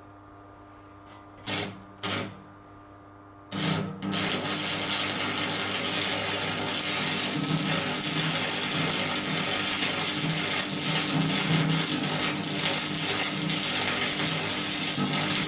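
Stick (arc) welding: two brief arc-strike attempts about a second and a half and two seconds in, then the arc catches at about three and a half seconds and crackles steadily and loudly. A low steady hum sits underneath.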